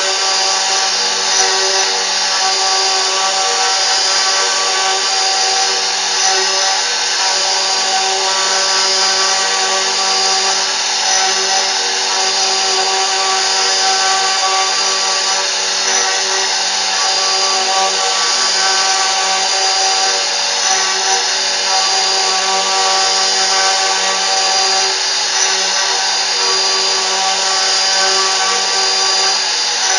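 CNC router running steadily: a held multi-tone whine from the spindle over a constant rough cutting noise, with no change in pitch or level.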